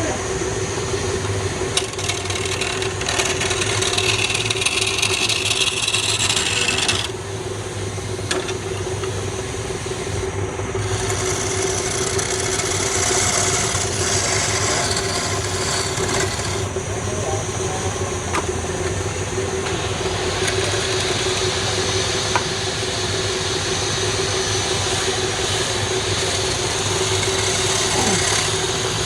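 A wood lathe runs with a steady motor tone while a turning tool cuts the spinning wood. The scraping hiss of the cut comes and goes as the tool is moved.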